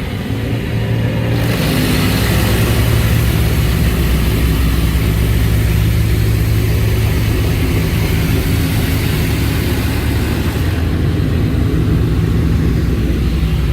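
Coleman Hanna Water Wizard 2.0 in-bay automatic car wash spraying high-pressure water over a car, heard from inside the car. The hiss of the spray sets in about a second and a half in and falls away a few seconds before the end, over a steady low hum.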